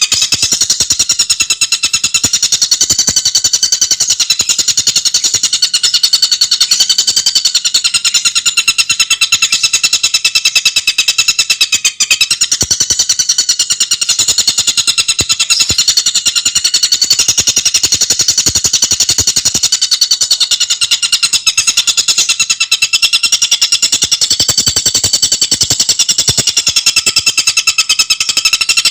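Tengkek buto bird singing a loud, high-pitched song of very fast, tightly packed notes that run on without a pause, breaking only for an instant about twelve seconds in.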